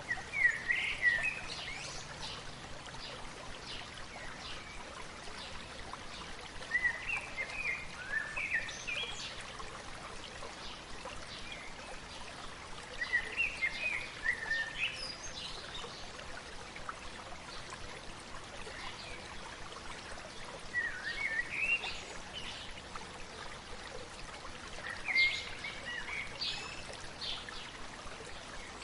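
Stream babbling steadily, with a songbird singing short chirping phrases over it about every six seconds.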